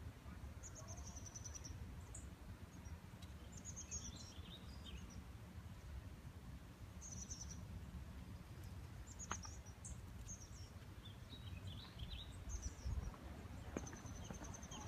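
Small birds chirping in short, high-pitched phrases every second or two, faint over a steady low rumble.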